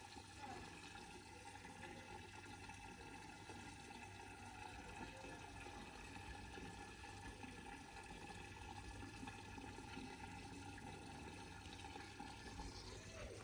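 Faint, steady running water pouring, with no break.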